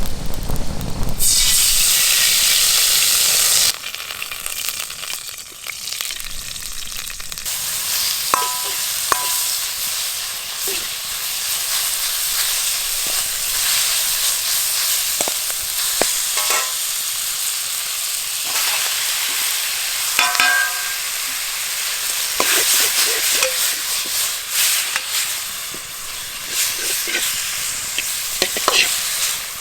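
Food frying in a hot pan: a loud burst of sizzling about a second in, then steadier sizzling with scattered metallic clinks and scrapes as it is stirred.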